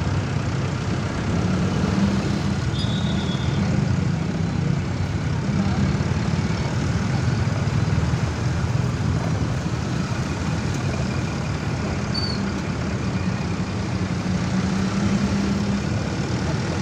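Steady low rumble of road traffic, with a brief faint high chirp about three seconds in.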